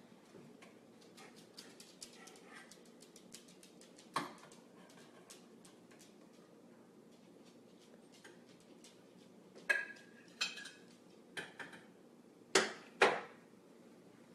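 Kitchen utensils and dishes clinking and tapping, with a handful of louder knocks and clatters, two of them close together near the end.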